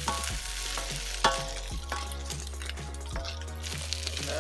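Snow peas sizzling in hot oil as they are stir-fried in a pan, with a sharp clank about a second in.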